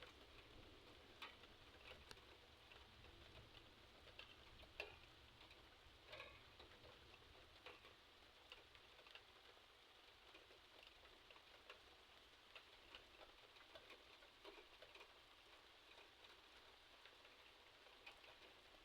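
Near silence with scattered, irregular faint ticks of light rain drops, one a little sharper about five seconds in.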